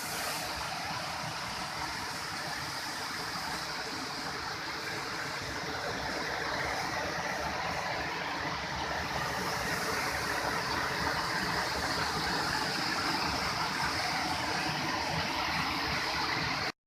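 Water of a stream rushing steadily.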